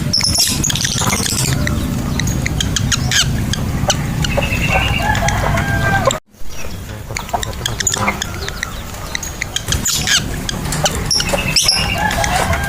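Lovebirds chattering and calling in short, shrill chirps and trills over a steady low hum, with a brief gap about six seconds in.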